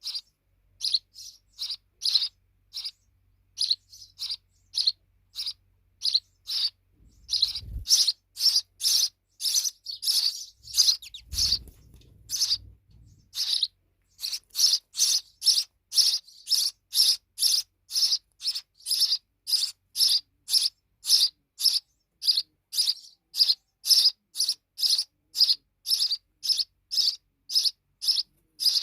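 Sparrows chirping over and over in short, sharp single chirps. The chirps are spaced out at first, then from about seven seconds in they run steadily at about two a second. Twice, around eight and eleven seconds in, there is a brief low rumble.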